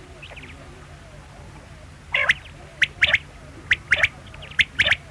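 Quail calling: short, sharp, high whistled notes, each group a single note followed by a quick pair, repeated about once a second from about two seconds in.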